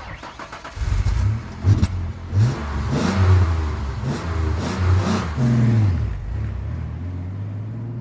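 1997 Ford Explorer's 4.0-litre OHV V6 running through a Flowmaster muffler, revved in a series of quick throttle blips starting about a second in. It then drops back to a steady idle near the end.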